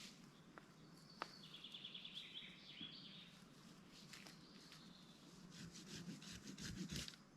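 A small songbird sings one short, fast trill about a second in, over faint scattered clicks and rustling; a quick run of ticks and rustles comes near the end.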